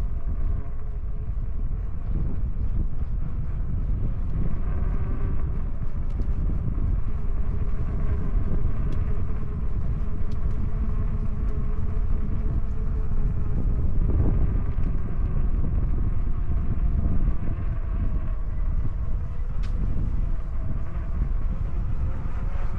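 Wind buffeting the microphone while riding an e-bike, with a faint steady whine from the bike's hub motor that rises and falls a little with speed.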